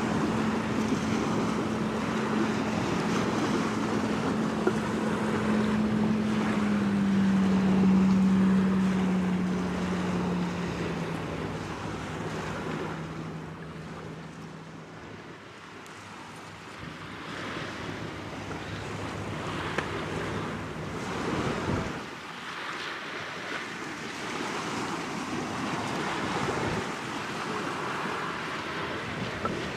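Wind buffeting the microphone and water washing at the shoreline, with the low engine hum of a passing ship that drops in pitch and fades out about twelve seconds in.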